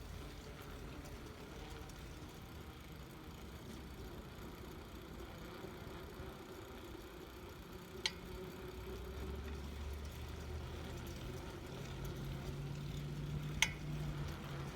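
A vehicle engine running steadily at low revs, growing a little louder from about nine seconds in, with two sharp clicks, about eight and thirteen and a half seconds in.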